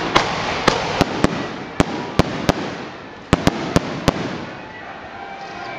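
Beehive rockets and aerial fireworks going off in a rapid, irregular string of about a dozen sharp bangs over a continuous crackling rush. The bangs stop about four seconds in, and the rush fades after them.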